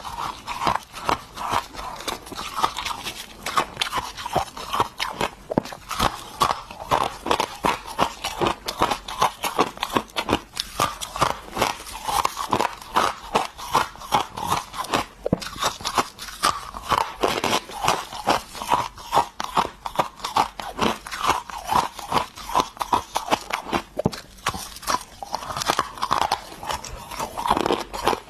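A person biting and chewing ice close to the microphone: rapid, continuous crunching and crackling, several sharp crunches a second.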